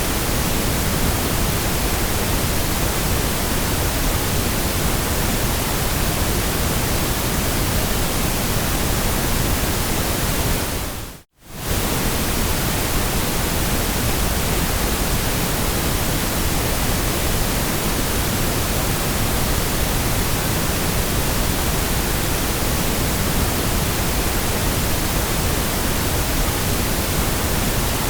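Steady, even white-noise hiss with no changes except one brief dropout about eleven seconds in: it fades out for a moment, then cuts straight back in at the seam of a loop.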